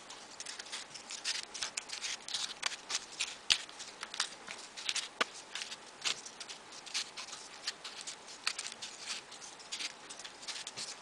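Folded paper triangle pieces being pushed onto a modular origami model: irregular light paper clicks and rustles, several a second.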